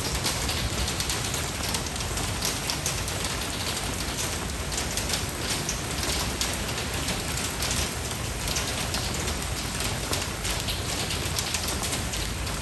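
Steady rain falling, with dense patter of drops hitting surfaces.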